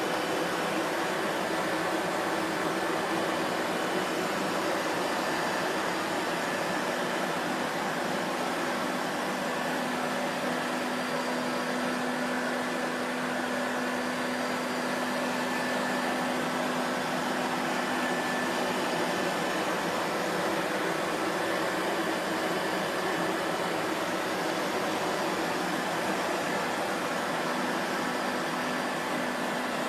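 Vacuum cleaner running steadily: a constant rush of air with a faint steady hum, unchanging in pitch and level.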